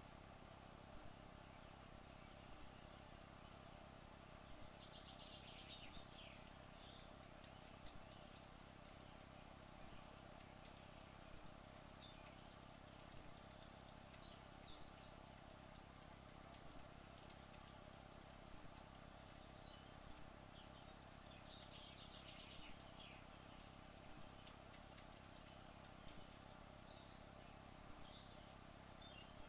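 Near silence: a faint steady hum, with a few faint high chirps now and then.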